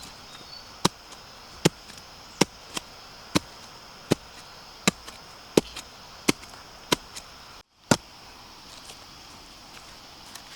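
A blade chopping at bamboo shoots: about a dozen sharp strikes at a steady pace, a little under one a second, that stop about eight seconds in. A steady high-pitched drone runs underneath.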